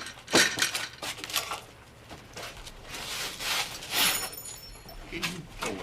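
A series of light clinks and rattles, the loudest just after the start, with a brief high metallic ring about four seconds in.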